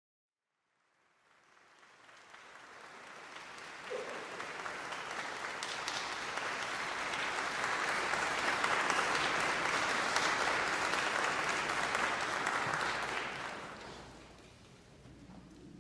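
Audience applauding: the clapping rises from silence about a second in, swells to a peak, and dies away near the end.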